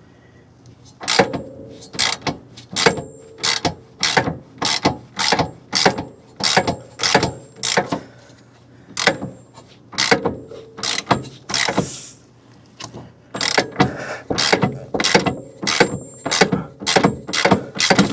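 Hand ratchet clicking in a long run of quick back-and-forth strokes, about one and a half a second with a couple of short pauses, as a suspension bolt is backed out of the rear wheel hub carrier.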